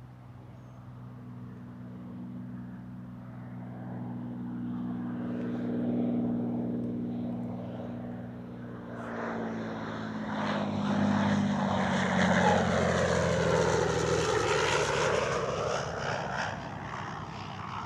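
Propeller airplane flying past overhead: its engine drone grows steadily louder, drops in pitch as it passes, and is loudest with a swirling whoosh about twelve to fifteen seconds in.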